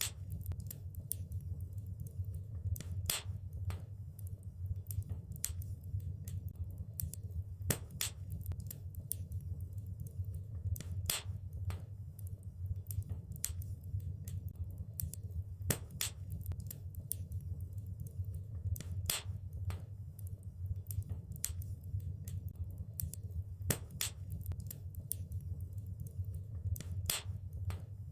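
Wood fire crackling in a fireplace: irregular sharp pops and snaps, a few a second with some louder cracks among them, over a steady low rumble of the flames.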